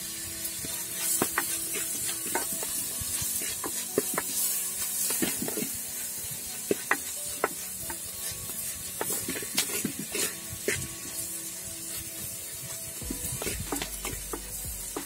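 Chopped onion and tomato sizzling in hot oil in a clay pot, stirred with a wooden spatula that scrapes and knocks against the pot over and over.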